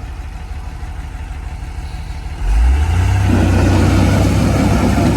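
Heavy diesel engine running at a low, steady idle, then revving up hard about two and a half seconds in and holding at high revs.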